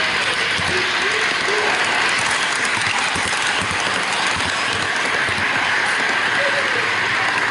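HO-gauge model freight train heard from a camera riding on one of its container wagons: a steady hiss of small metal wheels rolling on the track, with faint clicks from rail joints.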